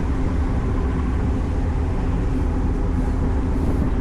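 Ferry under way: a steady low drone and hum from its engines.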